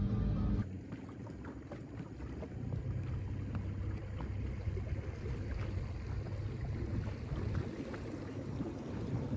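Wind buffeting the microphone on a boat: an uneven low rumble that gets a little louder about two and a half seconds in.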